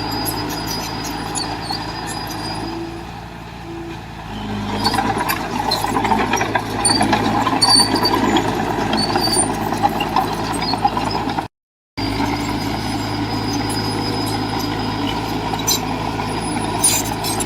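Heavy diesel earthmoving machinery running, with metallic rattles and clanks. It grows louder and rougher for several seconds from about four and a half seconds in, then the sound drops out for half a second before steady running resumes.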